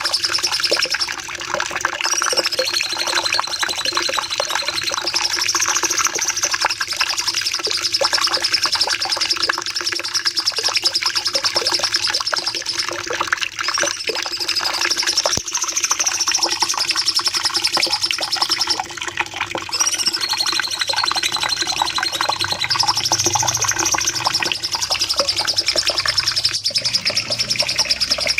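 Cucak cungkok singing long, rapid high-pitched trilling phrases ('nembak panjang'), the phrases repeating over and over with hardly a break.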